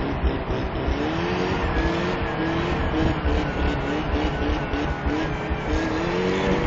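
Pickup truck engine revving up and easing off again and again over a steady rush of tyres spinning in deep snow: the truck is stuck in a snow-filled ditch and the wheels can't find grip.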